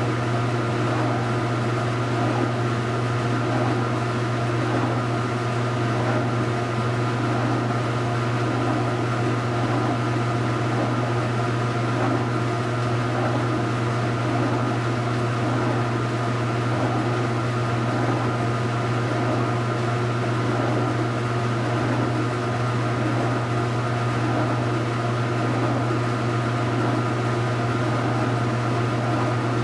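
2015 Speed Queen 8 Series top-load washing machine running mid-cycle: a steady motor hum with a slow, evenly repeating churning pattern over it.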